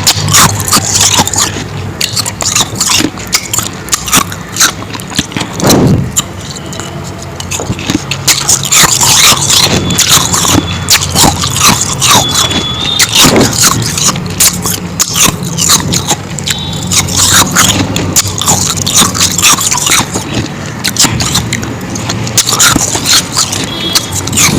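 Close-miked crunching and chewing of powdery ice: a dense, irregular run of crisp crunches and scrapes.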